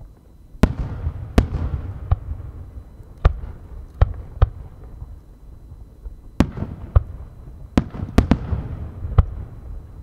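Aerial firework shells bursting overhead: about a dozen sharp bangs in two clusters with a short lull between, each trailing a low rolling rumble.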